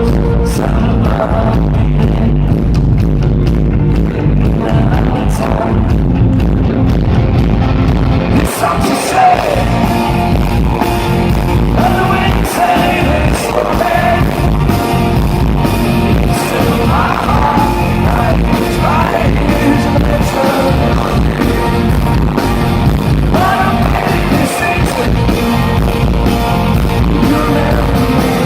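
Live rock band playing loudly, with a male lead voice singing from about nine seconds in.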